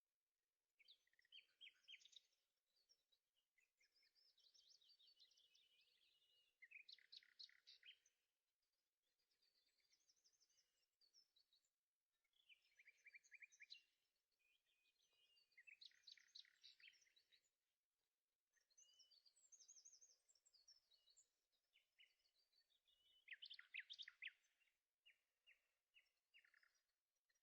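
Faint birdsong: a songbird sings short phrases of rapid high chirps and trills, one after another with brief pauses.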